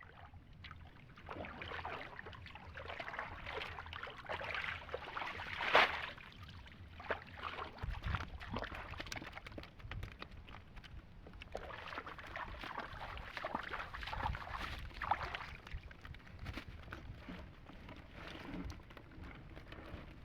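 Water sloshing and splashing in irregular surges, with scattered light knocks and one louder splash about six seconds in.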